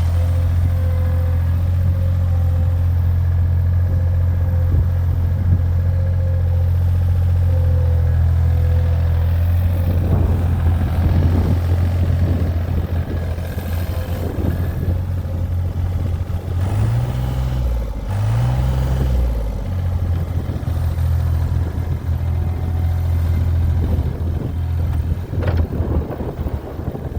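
Gehl 4635 skid steer's Deutz diesel engine running steadily, with clattering and rattling of the machine joining in from about ten seconds in. Near the two-thirds mark the engine note drops twice briefly and recovers, as when it is put under load.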